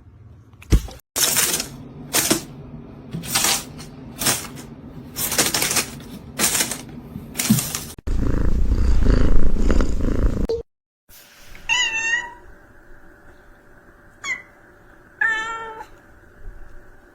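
A domestic cat meowing twice, a wavering call each time, with a short chirp between them; earlier, a run of short noisy bursts about one a second, then a stretch of loud low rumbling noise.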